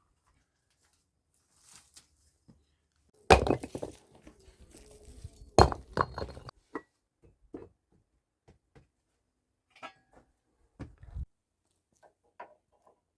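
Hard objects clinking and knocking together: two loud sharp clinks with a short ringing after each, about three and five and a half seconds in, surrounded by smaller clatters, then a few scattered light knocks.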